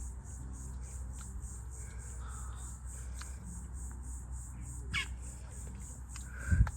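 Outdoor ambience of a high insect chorus pulsing about four times a second, with a few short bird calls. A loud low thump comes near the end.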